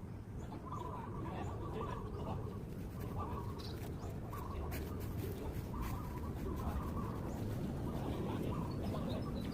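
Birds calling outdoors, short calls repeating every second or so over a low steady rumble of background noise.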